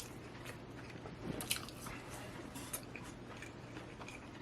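A person chewing and biting fried fast food close to the microphone, with scattered small wet mouth clicks.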